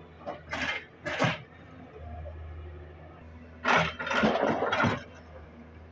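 Diesel engine running steadily at low revs while soil from an excavator bucket pours into a tractor trolley: two short loud rushes near the start, then a longer, louder rush with several clattering hits about two thirds of the way through.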